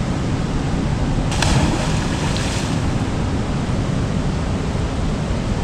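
Waterfall's rushing water: a steady, even roar, with a brief brighter rush about a second and a half in.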